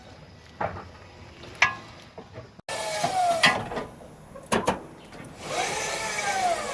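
Sharp knocks and clanks of tools on metal, then near the end about a second of a power tool whirring up and back down.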